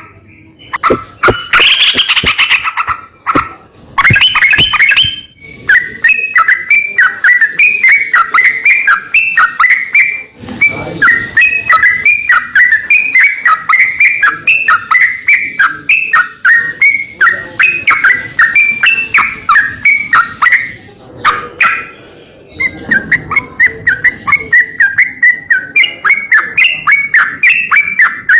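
Songbird singing loudly: a few varied calls, then a long run of short, rapidly repeated notes at about two a second. It breaks off briefly twice before resuming.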